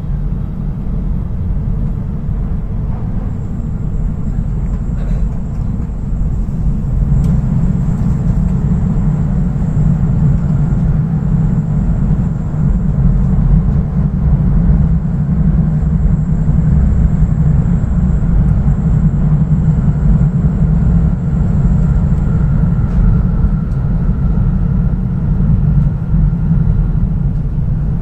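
Steady low rumble of an E5 series Shinkansen heard from inside the car while it runs, growing somewhat louder over the first several seconds.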